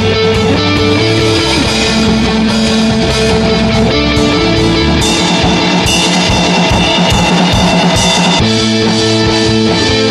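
Rock band playing an instrumental passage: electric guitars and bass over a drum kit with steady cymbal hits.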